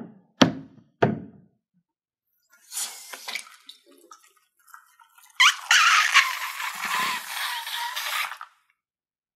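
Slime being handled: two sharp knocks in the first second, then wet crackling, then a long squelching hiss lasting about three seconds.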